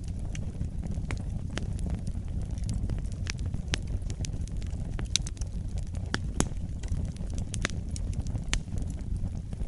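Wood fire burning steadily with a low rumble of flames and frequent irregular crackles and pops, the sharpest about five and six and a half seconds in.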